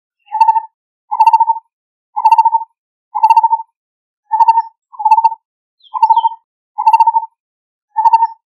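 Lineated barbet calling: a short trilled note repeated about once a second, nine times, at the same pitch each time, with silence between notes.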